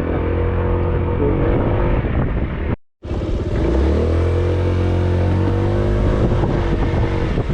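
A vehicle engine running steadily, cutting out completely for a moment about three seconds in, then coming back and rising in pitch as it speeds up.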